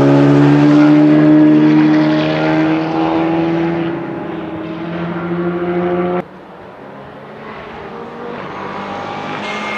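Rally car engine at full throttle, its pitch climbing slowly as the car accelerates, cut off suddenly about six seconds in. After that a quieter engine of another car comes in and grows louder toward the end.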